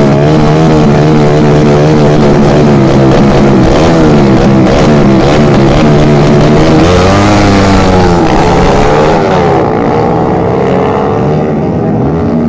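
Motorcycle engines running loudly close by, their pitch wavering up and down with the throttle; the sound eases a little near the end.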